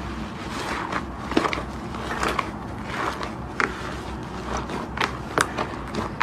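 Slime being squished and worked by hand, giving irregular small clicking pops over a low steady hum.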